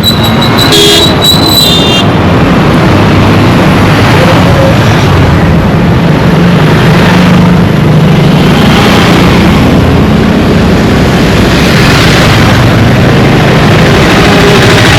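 Dense road traffic: a steady low engine hum under a thick roar of tyres and engines, swelling as vehicles pass. A high squeal cuts off about two seconds in.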